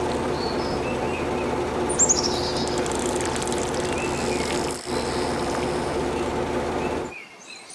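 Birds chirping over a steady background hum, with a quick falling run of chirps about two seconds in; the hum cuts off suddenly near the end.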